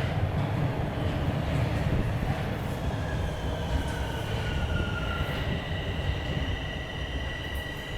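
Toronto subway train running on Line 4 Sheppard, with a steady low rumble. Thin wheel squeals come in about three seconds in: one glides down and fades, then steady high squeal tones hold near the end.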